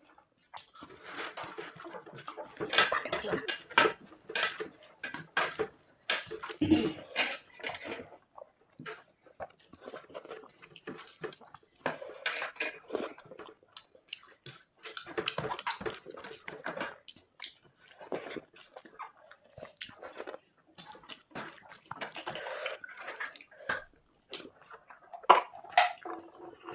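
People eating quickly with their hands: wet squelching as food is mixed and scooped, with chewing and many scattered small clicks, in irregular stretches with short pauses.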